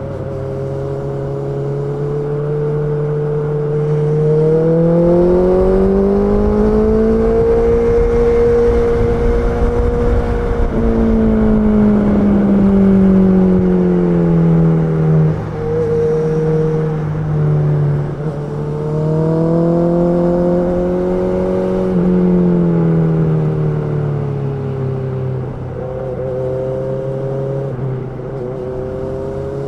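Honda CB650R's inline-four engine running under way. Its pitch climbs to a high note about ten seconds in, drops back, then rises and falls again twice as the throttle is worked.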